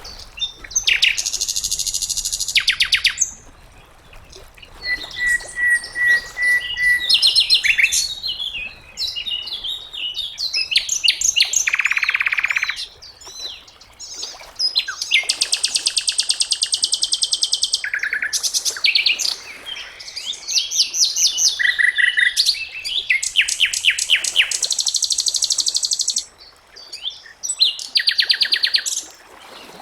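Sikatan londo singing a varied song: rapid trills of quickly repeated notes, some very high and buzzy, mixed with short clear whistles. Phrases of one to three seconds follow each other with short pauses.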